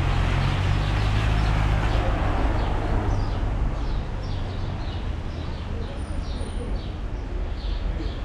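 Steady rain falling on an umbrella, with a low rumble that eases off about four seconds in. From about three seconds in, birds chirp quickly and repeatedly over the rain.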